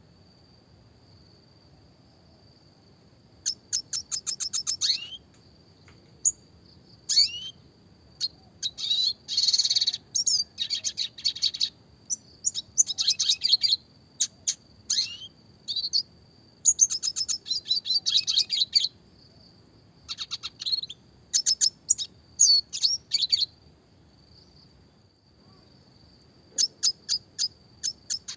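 Red siskin (Spinus cucullatus) singing in repeated bursts of fast, rapid-fire trills and chirps, broken by short pauses, with about three seconds of no song at the start. A thin, steady high tone runs underneath.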